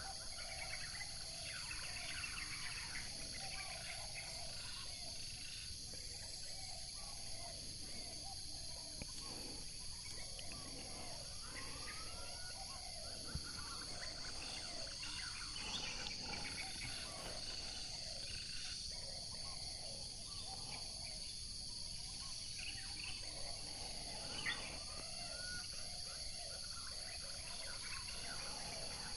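Insects droning steadily in a high-pitched chorus, with birds calling over it in short arching, whistled notes; two faint clicks, about thirteen and twenty-four seconds in.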